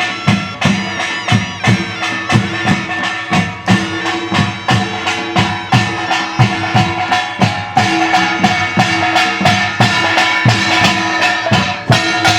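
Korean traditional folk music played live: percussion beating a steady rhythm, about two to three strokes a second, under a held, sustained wind-instrument melody.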